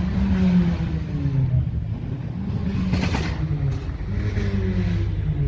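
Car engine running close by, its pitch sliding down during the first two seconds and again from about four seconds in, with a brief sharp noise around three seconds in.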